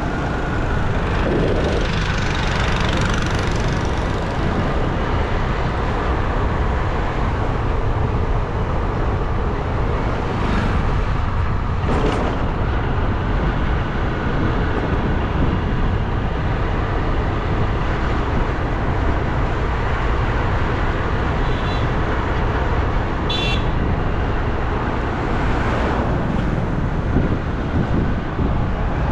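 Steady wind rush on the microphone and road noise from a bike moving along a road, with passing traffic. A brief high-pitched pulsing sound comes about 23 seconds in.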